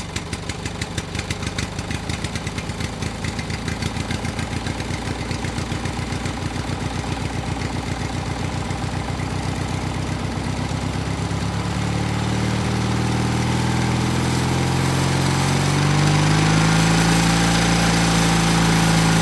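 A DIY mini tractor's small engine running at a low steady speed with an even firing beat. About two-thirds through it speeds up, getting higher in pitch and louder, and holds there near the end.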